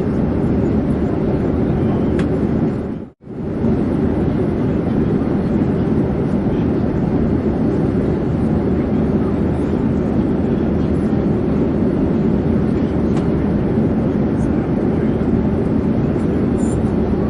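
Airplane in flight: a steady, even drone of engine and air noise that cuts out for a moment about three seconds in.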